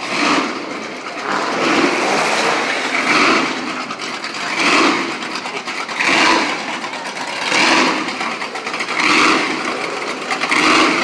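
Car engine running and revved in repeated surges, about one every second and a half.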